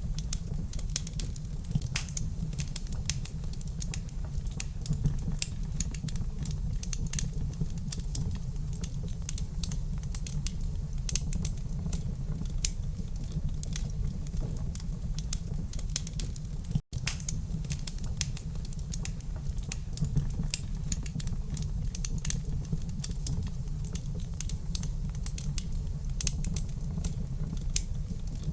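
Wood fire crackling in a fireplace: dense, irregular sharp pops and snaps over a steady low rumble, with a brief dropout to silence about seventeen seconds in.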